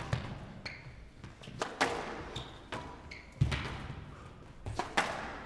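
Squash rally: the ball cracks off rackets and walls about every second or so, with short high squeaks from court shoes in between.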